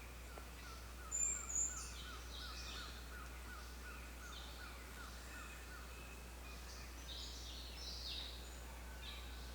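Several birds calling: one repeats a short chirp about four times a second for the first six seconds, two loud high chirps come just over a second in, and other scattered calls follow, over a steady low hum.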